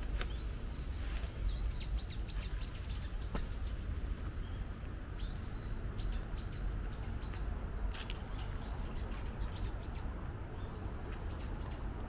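Small songbirds chirping in quick runs of short, high notes, with pauses between the runs, over a low rumble of wind on the microphone.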